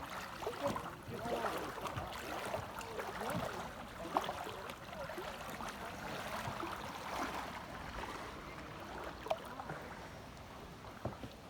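River water flowing and lapping around canoes, with a couple of faint sharp knocks about four and nine seconds in.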